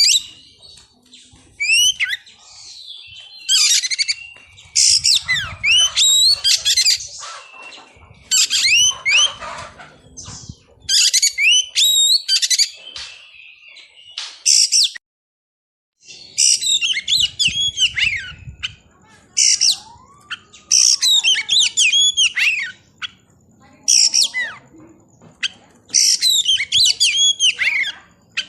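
Oriental magpie-robin (kacer) singing close by: loud bursts of rapid, high whistled and scratchy notes sweeping up and down, one burst every second or two, with a brief complete dropout about halfway through.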